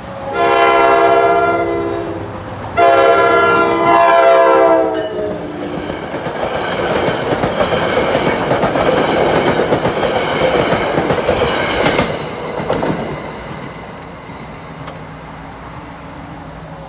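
NJ Transit commuter train blowing its multi-chime air horn in long blasts at a grade crossing, the last blast dropping in pitch as the front of the train passes. The coaches then rumble past with a clickety-clack of wheels over the rail joints, growing quieter about thirteen seconds in.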